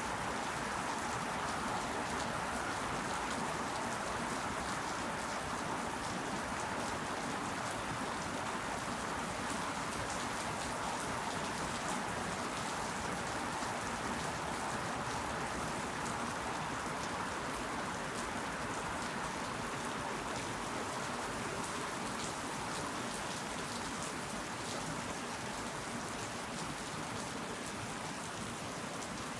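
Steady rain falling: an even, unbroken patter of drops.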